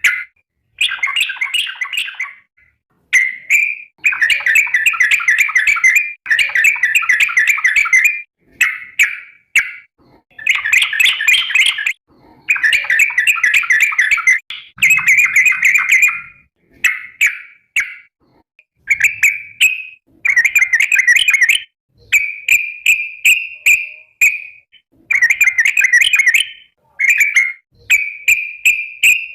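Yellow-vented bulbul (trucukan) giving loud, rapid chattering calls in repeated phrases of one to two seconds with short gaps between them: the bird calling to its companions.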